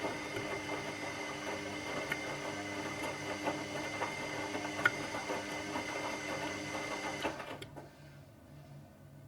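Washing machine running, its motor giving a steady whine with small clicks and knocks, with one sharper click about five seconds in. The motor stops about seven and a half seconds in, leaving a faint low hum.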